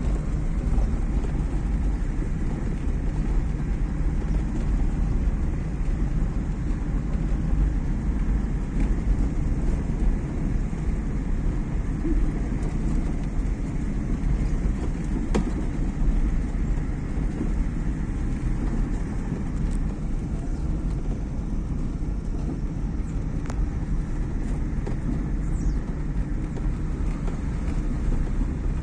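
Inside the cabin of a moving Fiat Uno, its four-cylinder engine running and tyres rumbling at a steady pace, with a few faint clicks here and there.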